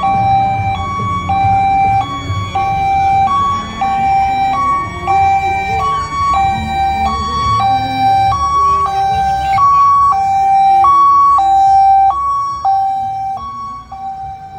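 Fire apparatus hi-lo siren, two alternating notes switching about three times a second, with a second siren wailing faintly underneath for a few seconds in the middle and low engine rumble; the siren fades near the end.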